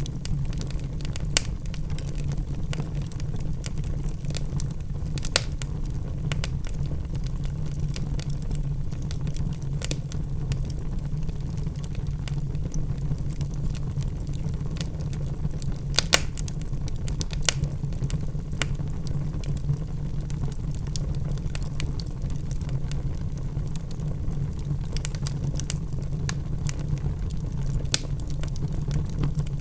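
Log fire burning in a fireplace: a steady low rumble of flames with irregular sharp crackles and pops from the burning wood, a few louder snaps scattered through.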